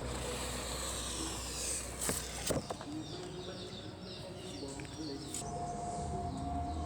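Birds chirping over a low steady rumble, with two sharp knocks about two seconds in.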